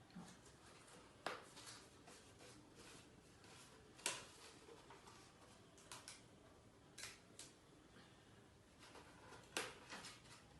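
Faint handling sounds of adhesive tape and cardstock: tape being pulled off and pressed onto a rolled paper tube, with a few scattered sharp crackles.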